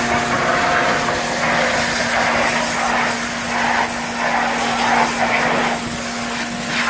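Vacuum truck running with a steady whine under an uneven rushing of air and water through its suction hose as it sucks up slurry during hydro excavation.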